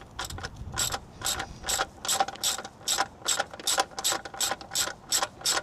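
Ratchet wrench clicking in a steady run, about four clicks a second, as it works the 13 mm oil drain plug loose.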